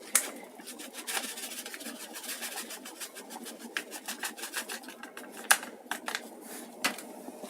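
Irregular clicks and scraping as oats are tipped into boiling water in an electric kettle and mixed in.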